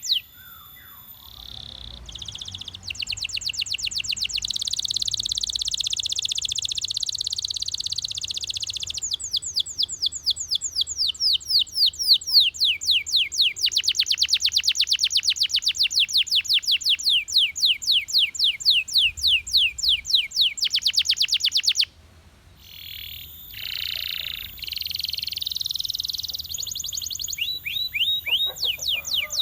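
Canary singing: long, fast trills of repeated high sweeping notes, several to ten or so a second, changing from one rolled phrase to the next. There is a short pause about three-quarters of the way through before the song picks up again.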